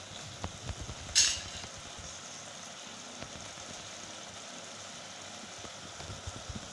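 Chicken masala gently sizzling in its separated oil in an aluminium pot over a low gas flame, a faint steady sizzle. A few light spoon clicks come near the start, and a brief sharper hiss about a second in.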